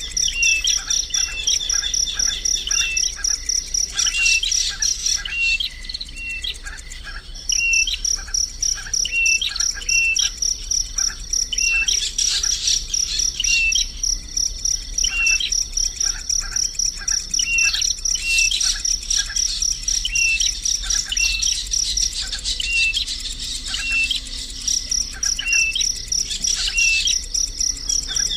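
Birds chirping: a short call repeated about every two-thirds of a second, with bursts of rapid high chirping four or five times. Under it an insect, likely a cricket, trills steadily at a high pitch, breaking off about five seconds in and starting again about two seconds later.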